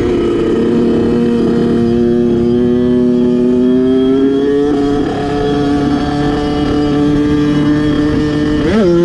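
Kawasaki dirt bike engine running under load, its pitch climbing slowly for about five seconds. It dips briefly, holds steady, then gives a quick sharp rise and fall near the end.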